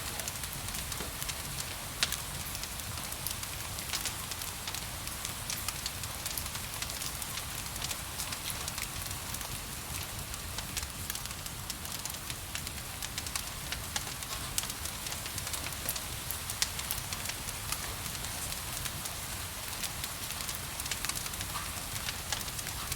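Wood fire crackling with frequent sharp pops over a steady hiss of rain.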